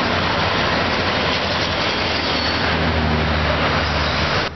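Freight train's diesel locomotives passing over a bridge: a loud, steady rush of wheel and rail noise over the low hum of the engines. The sound cuts off suddenly near the end.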